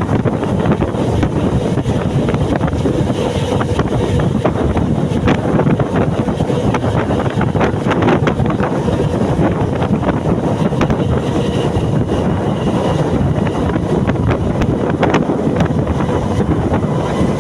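Wind buffeting the microphone over the steady rumble of a moving local train, with scattered short clicks and rattles.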